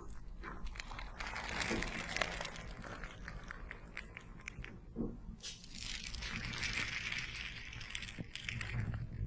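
Cooling gel patches being handled and wrapped close to the microphone: crinkling, crackling film and gel with many small clicks, swelling twice.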